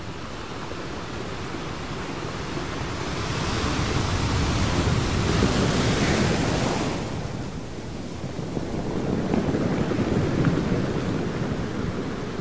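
Ocean surf washing in swells. One wave builds to a peak about six seconds in and falls away, and another rises and breaks near the ten-second mark.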